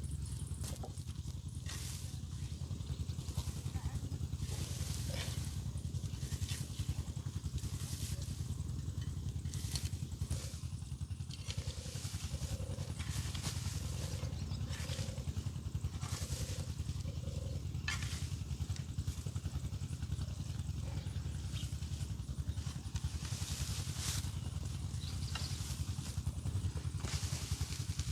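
An engine running steadily at an even speed, with scattered light clicks and rustles over it.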